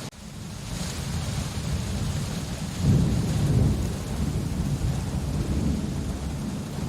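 Steady rain with a low rumble of thunder under it, the rumble swelling louder about three seconds in. The sound drops out for an instant at the very start.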